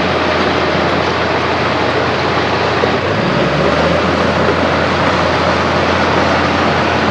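Heavy diesel earthmoving machine engine running steadily under load, with a loud, dense mechanical din; the low engine note dips briefly about three seconds in, then recovers.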